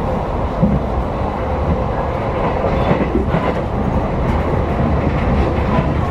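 Steady rumble of an electric commuter train running at speed, heard from inside the passenger car: wheels on the rails and the car's running noise.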